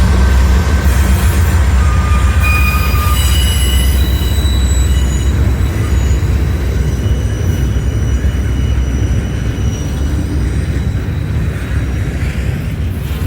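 Freight train cars rolling past with a steady deep rumble, their steel wheels squealing in short high-pitched tones as they take the curve, mostly between about two and seven seconds in.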